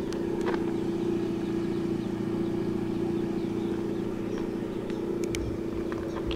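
Lada Vesta's four-cylinder petrol engine idling with a steady hum, heard from behind the car.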